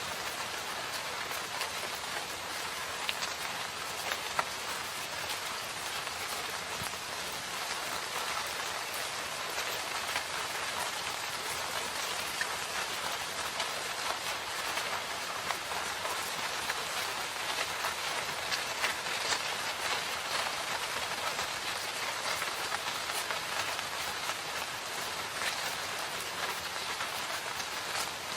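Steady rain falling in a forest, a dense even hiss with many small drop ticks scattered through it.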